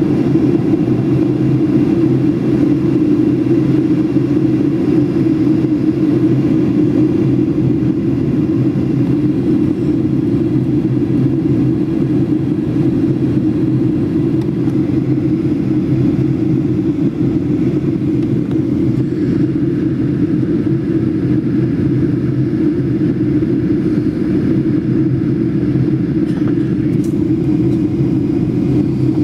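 Steady cabin drone of a Boeing 737 in flight: engine and airflow noise heard from inside the passenger cabin. A faint higher hum joins for several seconds about two-thirds of the way in.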